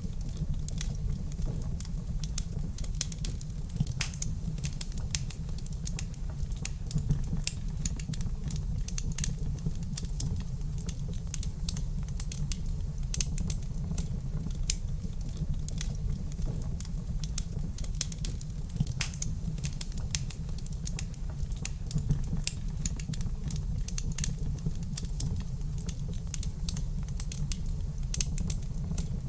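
Wood fire crackling in a fireplace: dense, irregular sharp snaps and pops over a steady low rumble of the burning fire.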